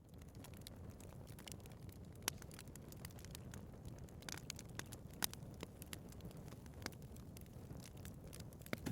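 Wood fire burning in a fireplace: a steady low rush of flame with frequent sharp crackles and pops, a few of them louder snaps. It swells up from silence at the very start.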